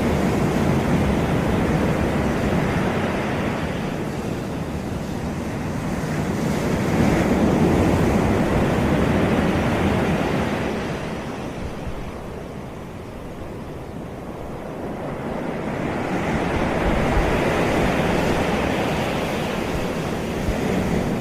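Sea waves breaking and washing up a beach in slow swells. One wave builds to its loudest about a third of the way in and eases into a lull, then another swells up near three-quarters of the way through.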